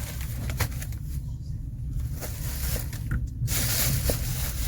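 Passenger train carriage running on the rails: a steady low rumble with a few irregular clacks of the wheels over rail joints. About three and a half seconds in, a loud steady hiss starts suddenly.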